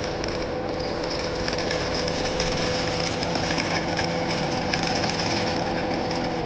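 Steady whine of a 1/12-scale RC Caterpillar 16M motor grader's electric drive motors and gearboxes running, with a held mid-pitched tone, a high whine and scattered small clicks.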